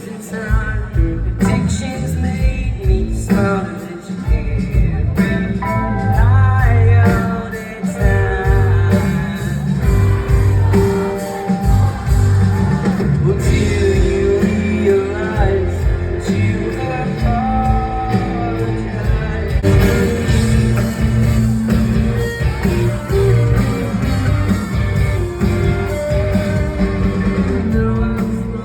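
Live rock band playing loudly with a lead singer's vocal line over guitar, drums and bass, as heard from within the concert crowd.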